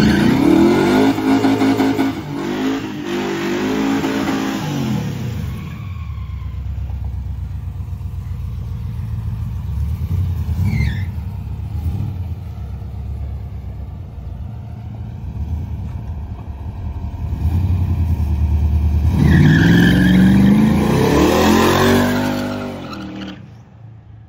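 A car engine revving hard and accelerating, its pitch swinging up and down, in two loud spells: one at the start and one near the end, with a steadier, quieter engine sound between them.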